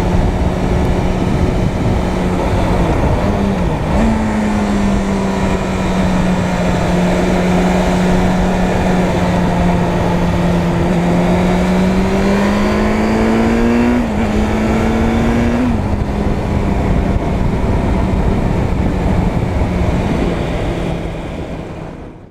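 Suzuki Bandit 600's inline-four engine running steadily while the motorcycle is ridden, over a heavy rush of wind noise. The engine note dips and then jumps up a few seconds in, climbs slowly, and shifts again twice near the end as the revs change. The whole sound fades out at the end.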